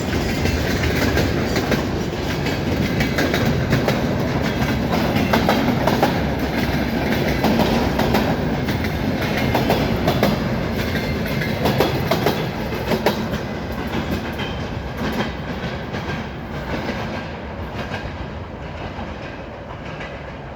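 Freight train wagons rolling past, their steel wheels clacking over rail joints in irregular clusters. The sound fades over the last several seconds as the train draws away.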